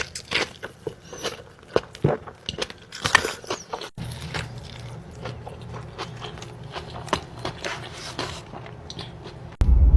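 Close-miked eating sounds: crisp bites and wet chewing of In-N-Out fast food, as a string of sharp crackly clicks. The sound cuts abruptly about 4 s in to quieter chewing over a low hum, and again near the end to a louder low hum.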